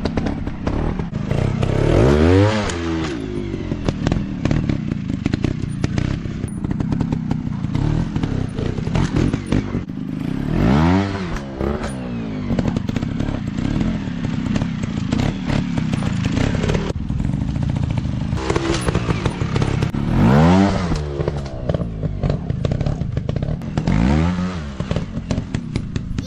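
150 cc dirt bike engines running hard off-road, revving up and dropping back four times over a constant rattly engine drone.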